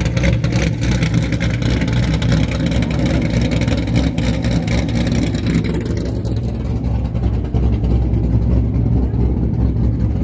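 Car engine with an aggressive camshaft idling with a choppy, lumpy exhaust note. It is brighter and harsher for about the first six seconds, then duller.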